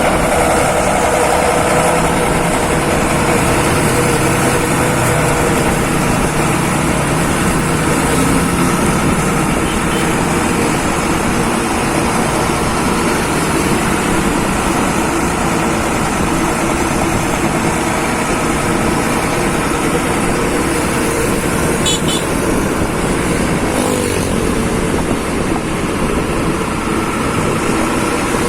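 Heavy diesel vehicle running steadily on the road: loud, constant engine and exhaust drone mixed with road noise, with no clear change in revs.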